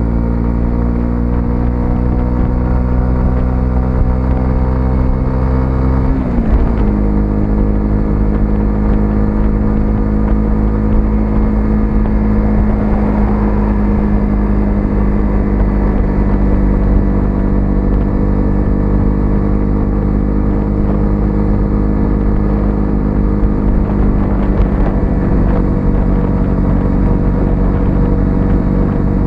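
A 125cc single-cylinder motorcycle engine running under way, rising slowly in pitch. About six seconds in, its pitch drops sharply and then settles and holds steady, a little lower than before.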